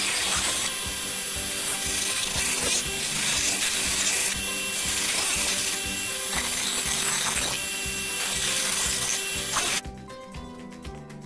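Rasping tool work on metal, typical of cutting through the corroded cooling-system pipe, over background music. It stops abruptly near the end, leaving only the music.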